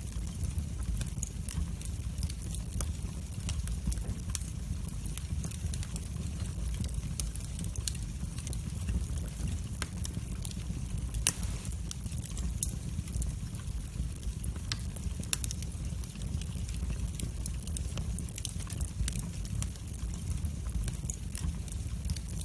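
Wood fire in a fireplace crackling: frequent sharp pops and snaps over a steady low rumble of the flames, with one louder pop about eleven seconds in.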